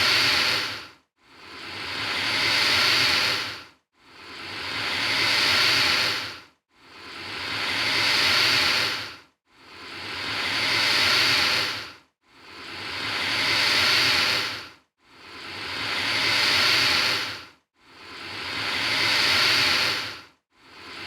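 Alligator hissing over and over: long, airy hisses, each swelling and then breaking off in a short gap, one about every three seconds.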